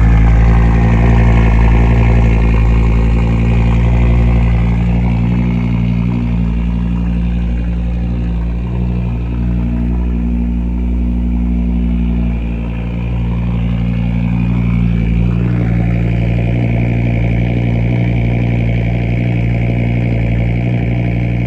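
Audi RS3 8V's turbocharged 2.5-litre five-cylinder engine running at fast idle after a cold start. It is loudest at first and settles gradually lower over the following seconds.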